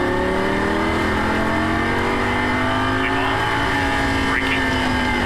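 Lamborghini Gallardo LP560-4's V10 engine accelerating under load, heard from inside the cabin: the engine note climbs steadily for about three and a half seconds, then holds and eases off slightly near the end.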